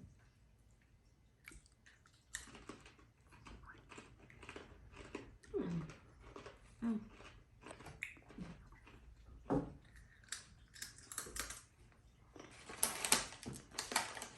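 People crunching and chewing roasted onion pretzel crisps, with many short crackling bites throughout and a denser spell of crunching near the end.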